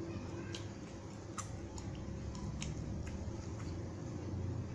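Close-up chewing and wet mouth sounds from eating beef rendang and rice by hand, with about a dozen short, soft, wet clicks and smacks scattered unevenly through.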